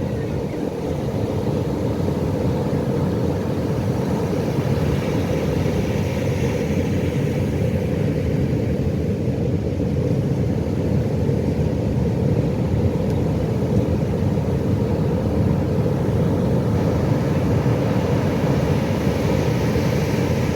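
Ocean surf giving a steady, deep roar, with waves swelling a little louder about a third of the way in and again near the end.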